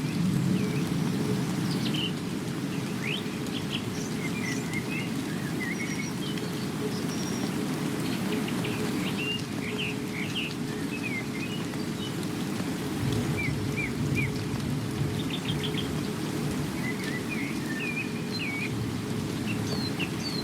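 Steady rain with small birds chirping and whistling in short scattered calls throughout.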